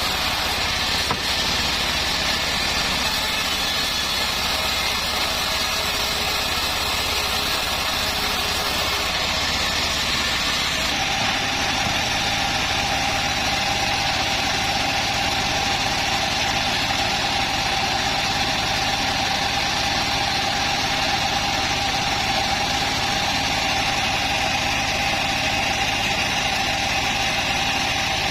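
Homemade band sawmill running steadily as acacia wood is sawn. About eleven seconds in, the sound changes and a steady whine sets in for the rest of the time.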